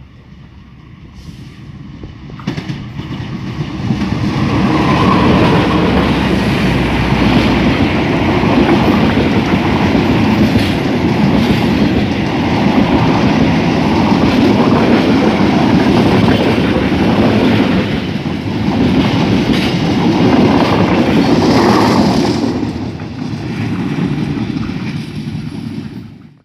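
Passenger train passing close by at speed: locomotive, then a long rake of carriages, their wheels clattering on the rails. It builds up about three seconds in as the train arrives and dies away near the end as the last carriages go by.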